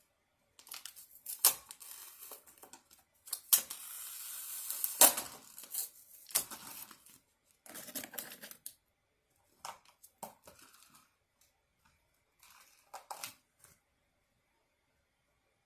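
Takeout food packaging being handled and opened: irregular tearing, crinkling and clicking of paper and plastic, with a longer tearing rustle a few seconds in, then a few scattered clicks before it stops near the end.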